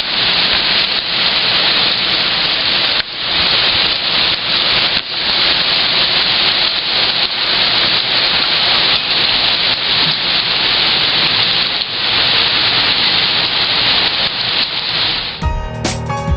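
Heavy rain pouring steadily, a loud dense hiss with brief lulls. About a second before the end it gives way to music with guitar.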